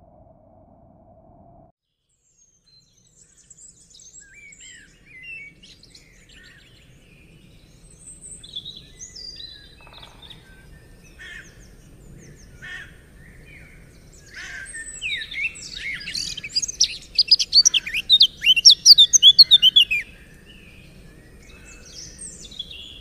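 Several songbirds singing: scattered chirps and whistles, swelling about two-thirds of the way through into a loud, rapid run of high chirping, then back to scattered calls near the end. A faint steady tone at the very start cuts off after a couple of seconds.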